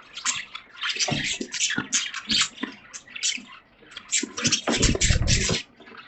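Caged budgerigars chattering in a quick, dense run of short chirps and warbles, with a brief low rumble a little before the end.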